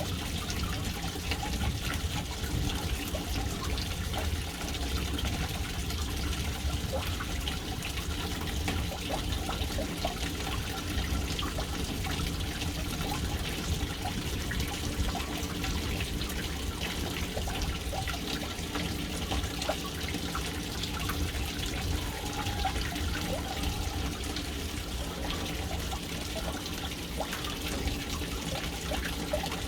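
Water falling steadily into a household water tank, a continuous splashing trickle onto the water surface.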